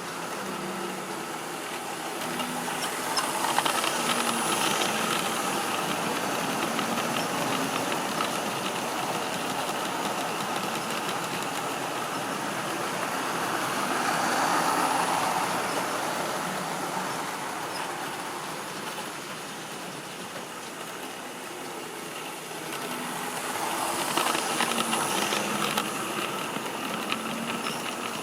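A model train running around a layout: the motor hums and the wheels click over the rail joints. It grows louder each time it passes close, about every ten seconds.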